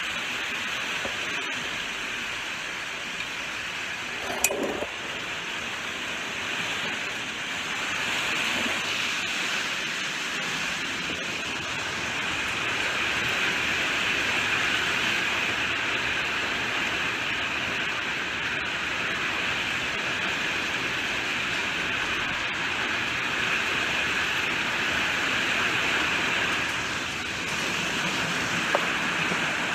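Steady rainfall, an even hiss that swells a little and eases again. A single sharp tap stands out about four and a half seconds in, and a fainter click comes near the end.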